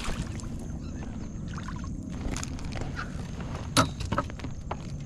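Low, steady rumble of water and wind around a fishing kayak, with scattered small knocks and one sharp click about four seconds in. A faint steady high tone lies underneath.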